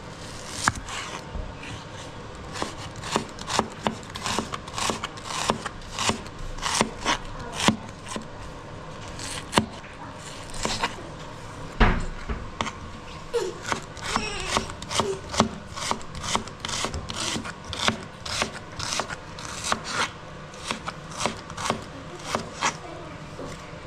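Knife chopping on a cutting board, steady strokes about two a second, with one heavier thud about halfway through.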